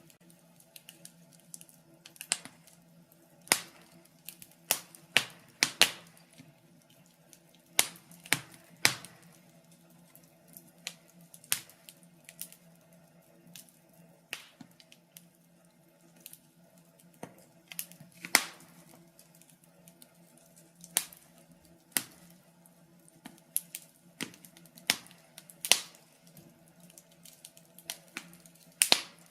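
Wood fire in a fireplace crackling, with sharp irregular pops every second or two, some much louder than the rest.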